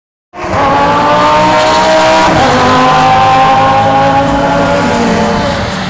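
GT3 race car engine accelerating hard, its pitch climbing with one upshift about two seconds in.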